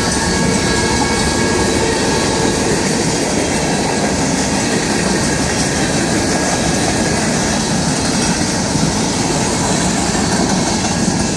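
A train passing through a railroad crossing: a loud, steady rumble of wheels on rail, with a few faint steady high-pitched tones over it.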